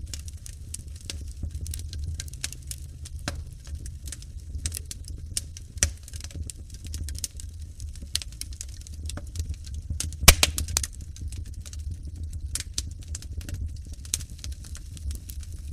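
Wood fire crackling in a fireplace: irregular pops and snaps over a low, steady rumble of the flames, with a sharp burst of pops about ten seconds in.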